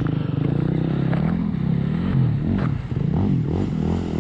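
Motorcycle engine revving up and down as the bike is ridden over rough dirt, with a sharp knock about two and a half seconds in.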